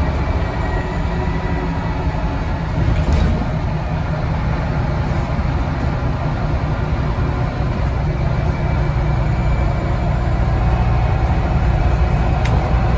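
Scania N94UD double-decker bus with ZF automatic gearbox running under way, heard from on board: a steady, loud low engine rumble with faint whining tones over it.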